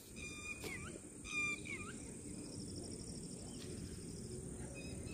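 Birds calling at dusk in open countryside: a few short, quick chirps in the first two seconds, then a fast, high trill lasting about a second and a half, over a faint steady background hum.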